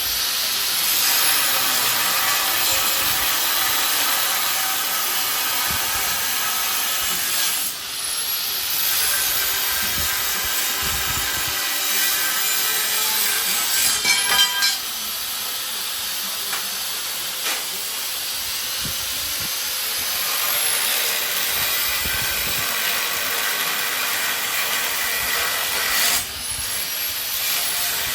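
Power tool cutting steel stock for smoker racks, a steady loud hissing cut that breaks off briefly twice before starting again.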